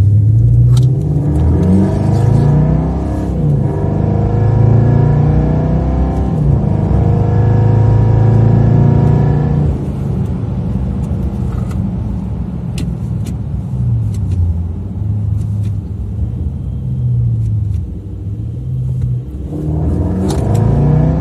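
Toyota Land Cruiser 200's 4.5-litre twin-turbo diesel, its note shaped by an ENGINEVOX active electronic exhaust sound system, revving up and down again and again. It settles into a steadier, slightly quieter run about halfway through, then revs again near the end.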